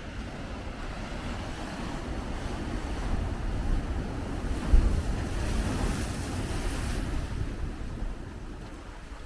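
A big ocean wave breaking and washing in, the surf swelling to a peak midway and fading away, with a brief thump of wind on the microphone near the middle.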